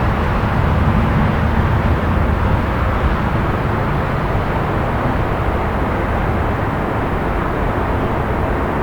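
Steady low rumble of distant city traffic at night, an even wash of noise with no single event standing out, a little fuller for the first few seconds.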